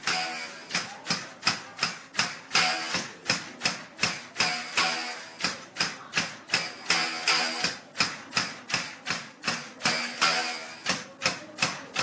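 Cotton-fluffing bow being struck with a wooden mallet to loosen raw cotton. The bowstring gives a sharp twang about three times a second, and every few strokes the twang rings on longer.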